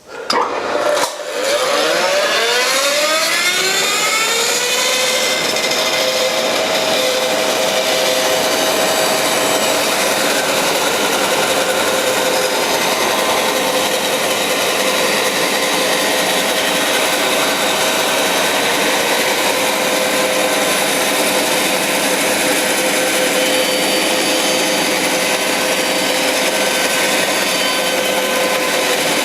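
Bandsaw switched on about a second in, its motor winding up to speed with a rising whine over a few seconds, then running steadily as the blade cuts a solid maple tabletop into a circle on a pivot jig.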